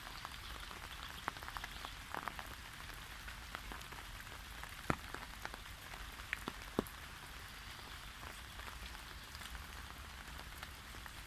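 Steady light rain falling, a soft hiss with scattered individual drops ticking sharply on nearby surfaces.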